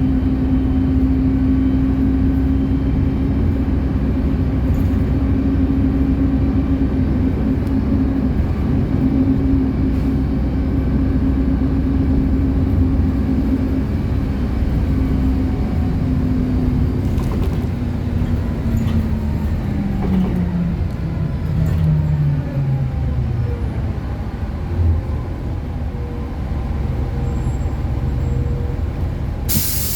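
City bus running, heard from inside, with a steady drivetrain whine that falls in pitch over several seconds past the middle as the bus slows for a stop. Right at the end comes a sharp hiss of released air from the air brakes or door mechanism.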